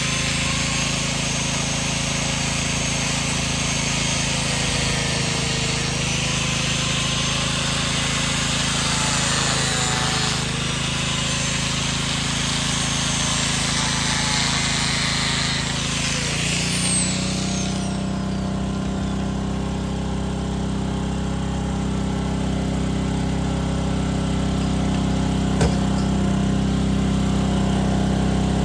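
A high-pitched power tool running, its pitch dipping and recovering as it is loaded, then winding down about seventeen seconds in. Under it a small engine runs steadily and carries on alone once the tool stops. A single sharp click comes near the end.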